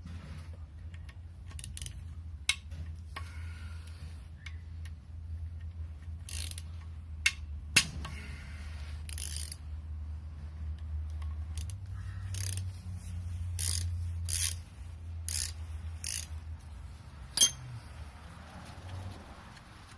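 Ratchet wrench clicking in short runs as T30 Torx bolts are backed out of the engine's camshaft end caps, with sharp metal clicks and clinks between the runs. A steady low hum lies underneath.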